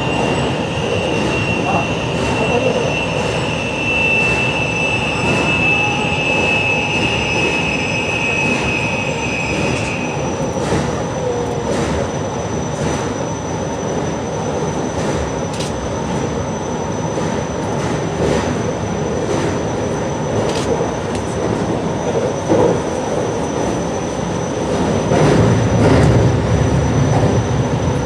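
JR Shikoku 8600 series electric train running at speed, heard from on board, with a steady rumble and evenly spaced clicks as the wheels cross rail joints. A high whine sinks slightly in pitch and stops about ten seconds in.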